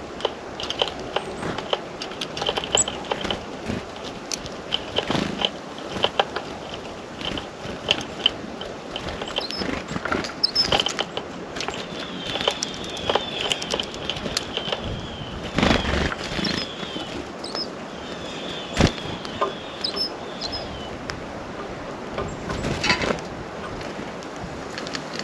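Small songbirds at a feeder close to the microphone: frequent sharp clicks and taps of beaks and feet on seed and feeder, with short high chirps and, about halfway through, a quick run of rapid call notes.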